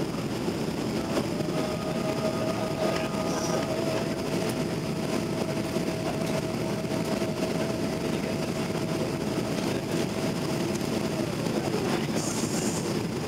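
Boeing 777-200LR jet airliner heard from inside the passenger cabin during the climb after takeoff: a steady low rumble of engine and airflow noise, with a steady whine that sets in about a second in and stops near the end.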